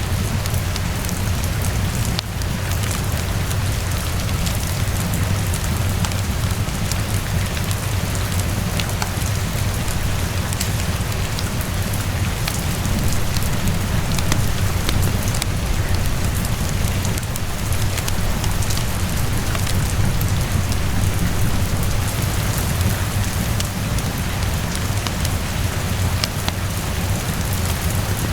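Steady rainfall with a low rumble underneath, mixed with a fireplace crackling in scattered sharp ticks.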